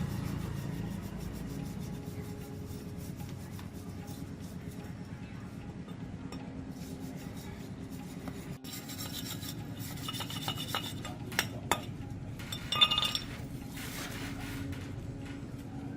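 Steady low machine hum under rubbing and scraping on metal, with a run of sharp metallic clinks about ten to thirteen seconds in.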